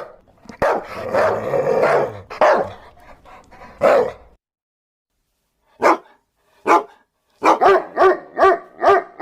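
Dogs barking: a dense cluster of barks in the first few seconds, then a gap of about a second and a half and two single barks. From about seven and a half seconds in, a run of rapid, evenly spaced barks follows, nearly three a second.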